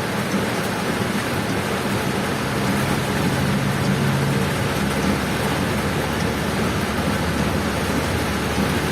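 Heavy rain falling steadily, with the low hum of the vehicle's engine underneath, plainest a few seconds in.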